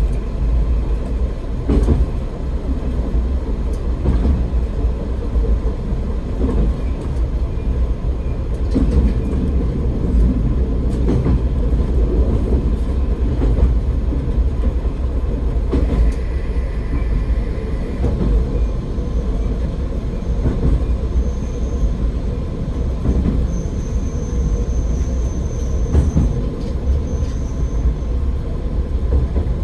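AN-8800 single-car diesel railcar running along the line, heard from inside: a steady low rumble of engine and wheels with scattered knocks from the rails. A faint high-pitched wheel squeal comes in over the second half.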